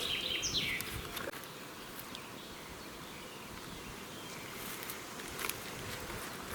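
Quiet forest ambience. A single short bird call falls in pitch within the first second. After it comes a faint steady outdoor background with a few soft clicks.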